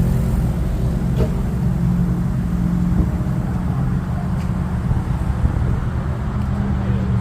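A car engine running steadily at an even low speed, with no change in pitch.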